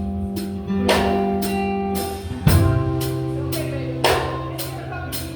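Live gospel band playing without vocals: drum kit beats and cymbal hits over held keyboard chords, guitar and bass notes.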